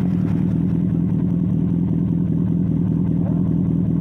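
Sport motorcycle engine idling steadily at an even pitch, just after being started.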